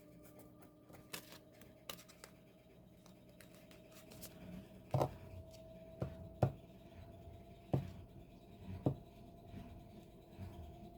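Hands handling the paper and card contents of a K-pop album being unboxed: light scratching and rubbing, with sharp clicks or taps about five, six, six and a half, eight and nine seconds in, over a faint steady hum.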